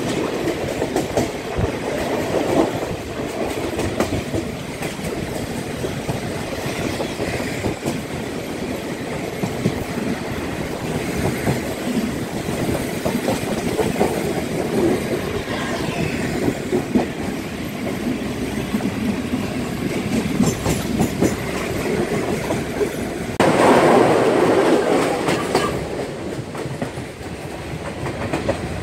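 Passenger train running along the track, heard from a carriage window: a steady rumble with the clickety-clack of wheels over rail joints. It grows louder for a couple of seconds about two-thirds of the way through.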